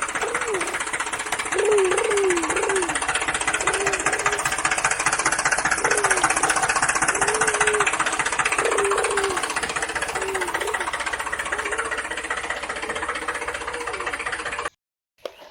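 Small electric motor and plastic gears of a battery-powered toy vehicle, buzzing and rattling fast without let-up, with short wavering pitched sounds over it. It cuts off abruptly about a second before the end.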